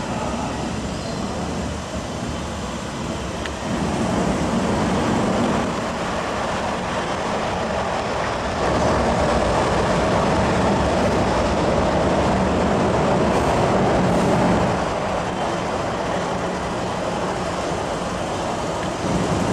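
MTR engineering train, locomotives L79 and L82, running through the station without stopping, heard behind platform screen doors as a steady rumble. It grows louder about four seconds in and is loudest from about nine to fifteen seconds, then eases off.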